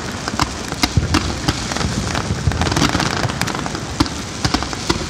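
Fireworks display going off: a dense, irregular run of sharp cracks and bangs, several a second, over steady noise.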